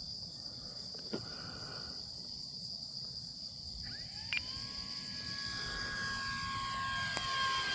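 Electric motor and propeller of an RC Cessna 182 model plane whining in flight, the whine bending up in pitch about four seconds in, then holding steady and growing louder. A steady high insect chirping runs underneath.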